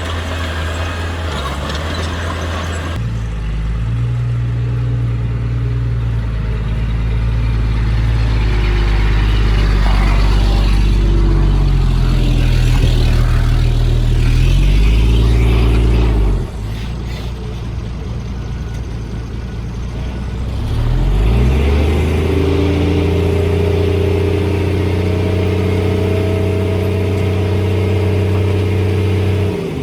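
Diesel engine of heavy earthmoving machinery running hard. Its pitch drops about halfway through, then rises again as it revs back up and holds.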